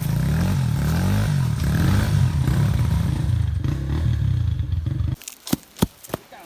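Small pit bike engine running with its pitch rising and falling as the throttle is worked. It stops abruptly about five seconds in, followed by a few sharp clicks and knocks.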